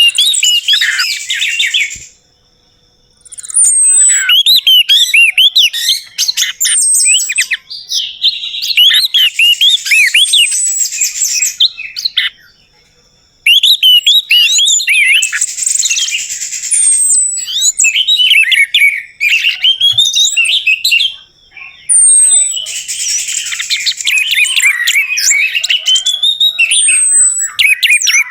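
Orange-headed thrush (anis merah) singing: long, rapid phrases of varied whistled notes, often opening with a high falling whistle, broken by short pauses.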